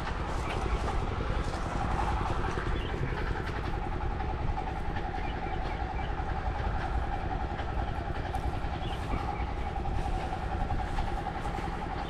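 Steady low rumble with a constant mid-pitched hum, from passing traffic or machinery.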